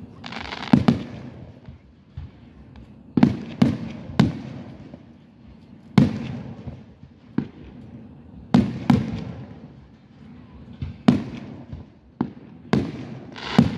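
Aerial firework shells bursting: about a dozen sharp booms, one every second or so, some in close pairs, each with a fading echo. A hiss of crackling comes near the start and again near the end.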